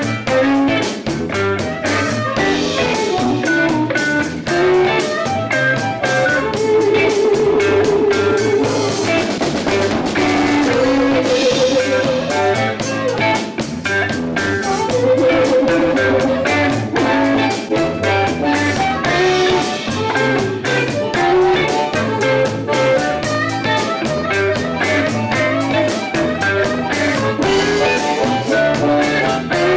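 Live instrumental blues band playing: electric guitar and drum kit keeping a steady groove, with a blues harmonica holding long wavering notes a few times.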